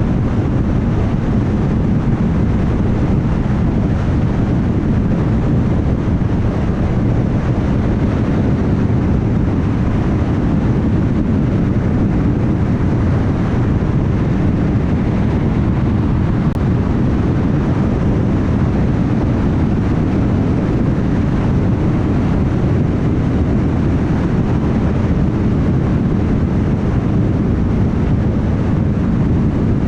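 Car driving at highway speed: a steady, even hum of tyres on the road with engine and wind noise, mostly low-pitched and unchanging.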